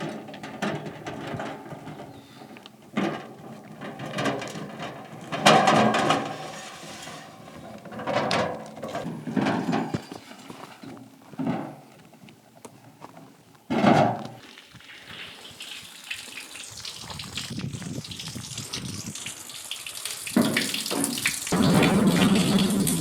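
Water in a spring basin splashing and sloshing in a series of short bursts, then a steady rush of running water that grows louder toward the end.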